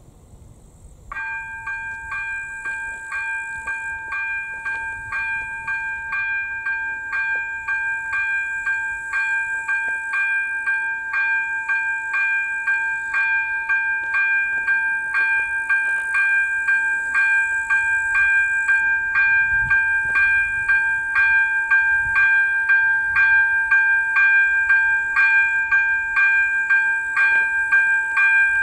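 AŽD ZV02 electronic level-crossing bell starting to ring about a second in, a steady ding-ding of about two strokes a second that signals a train approaching the crossing. Crickets chirp faintly under it.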